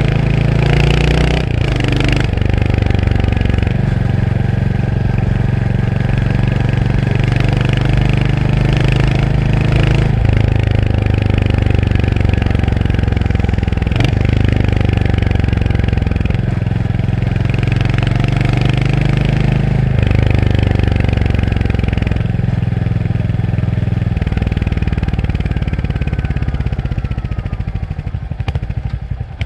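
Royal Enfield Hunter 350's single-cylinder engine pulling on the road, the revs rising and dropping several times with gear changes. Near the end the throttle closes and the engine drops to low revs, its separate firing pulses plain to hear.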